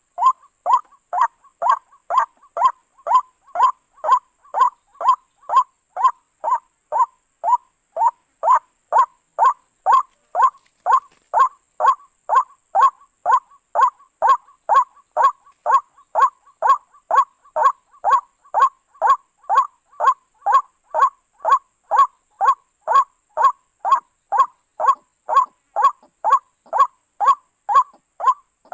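White-breasted waterhen (ruak-ruak) calling, the same harsh note repeated evenly about twice a second without a break.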